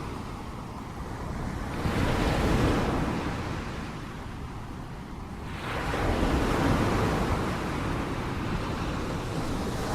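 Ocean surf breaking and washing in: a swell of rushing noise about two seconds in that fades away, then a second one about six seconds in that lingers before easing off.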